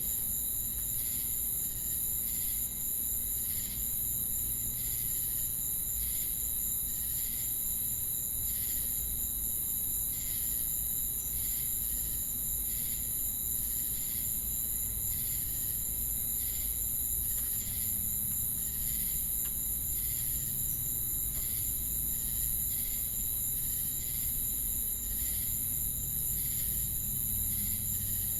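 Chorus of crickets and cicadas: a continuous high-pitched buzz and steady trill, with evenly spaced chirps a little more than once a second. A faint low rumble lies underneath.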